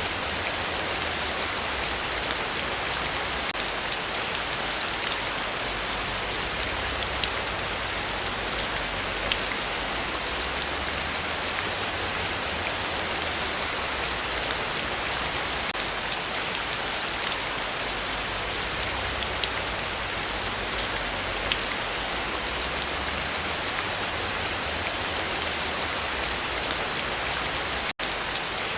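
Heavy rain falling steadily: a dense, even hiss with scattered ticks of individual drops. The sound cuts out for an instant near the end.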